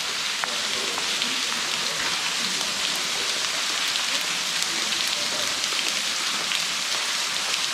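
Waterfall spilling and splashing close by: a steady, even hiss of falling water, with a few faint drip-like ticks.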